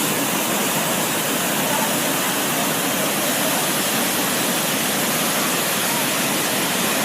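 Waterfall: a steady, loud rush of falling water that holds an even level throughout.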